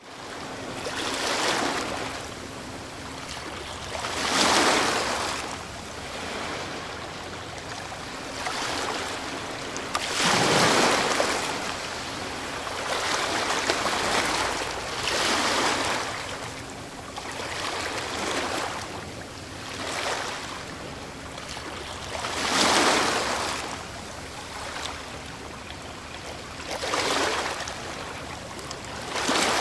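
Ocean waves breaking on a shore. The surf rises and falls in repeated surges every few seconds, with the biggest breakers about 4, 10 and 22 seconds in.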